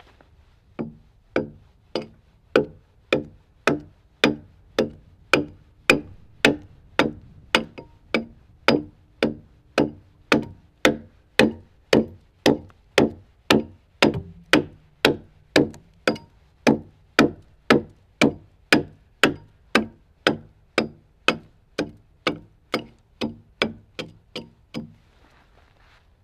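Steady, evenly spaced blows on a timber log, about two a second, some forty-five in all, each with a short woody ring; they stop shortly before the end.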